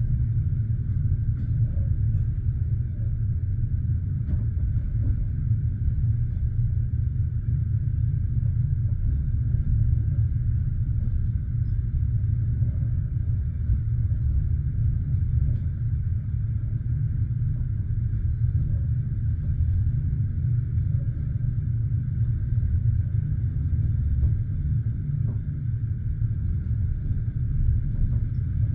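Passenger train carriage heard from inside: a steady low rumble with no distinct rail-joint clicks.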